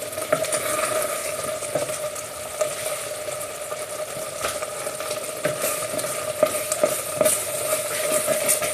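Thick risotto sizzling in a pan near the end of cooking, with a spoon stirring it and giving irregular clicks and scrapes against the pan. A steady hum runs underneath.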